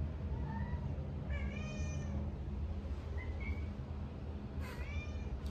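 Pet cats meowing about four times, short rising-and-falling calls over a low steady hum: hungry cats asking to be fed.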